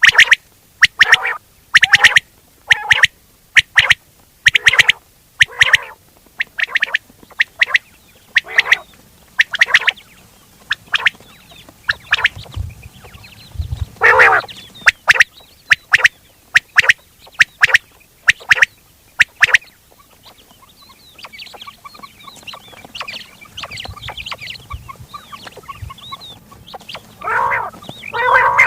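Quail calls for hunting: short, sharp calls repeated about once a second. After about twenty seconds they give way to a softer stretch of fast twittering chatter, and loud calls return near the end.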